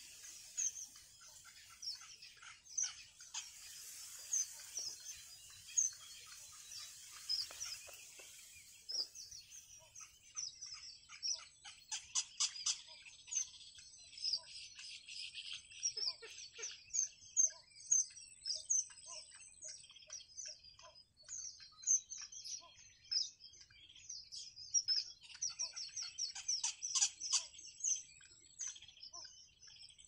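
Rapid, high-pitched chirping of birds, many short calls a second, growing denser about ten seconds in.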